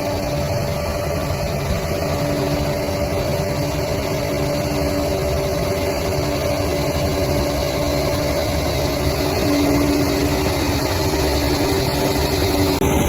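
Bulldozer's diesel engine running steadily, with a constant low hum and a steady drone tone, getting slightly louder about ten seconds in.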